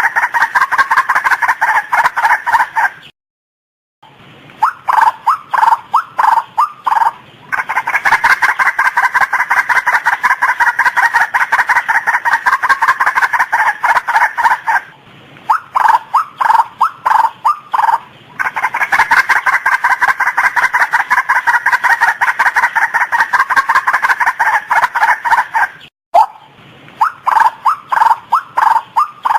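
Female white-breasted waterhen calling: long runs of fast, repeated notes. Stretches of slower, separate notes lead back into each run. The calling breaks off briefly twice.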